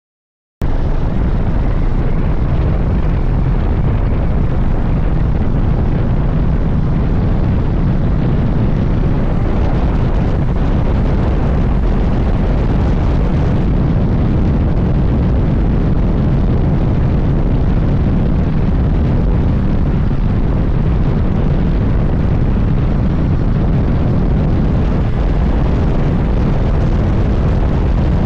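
Suzuki GSX-S1000GT motorcycle riding along, its inline-four engine running under heavy wind rush on the microphone. The sound cuts in abruptly about half a second in and then holds steady and loud.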